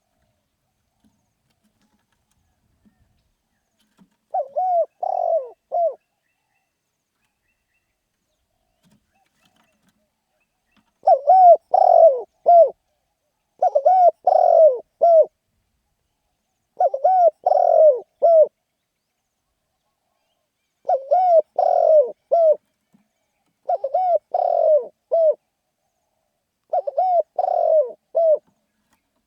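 Spotted dove cooing: seven phrases of several short, hooked coos each, the first about four seconds in, then after a pause the rest coming every second or two.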